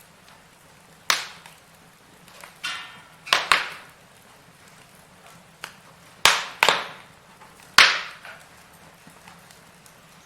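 Firewood burning in a fireplace, crackling: about six sharp, loud pops that die away quickly, with faint small crackles between them and a brief hiss just before the loudest pops near the middle.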